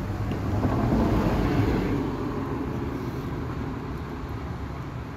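Motor oil pouring from a bottle through a long funnel into the engine's filler, a rushing sound that is loudest about a second in and slowly tapers off, over a steady low hum.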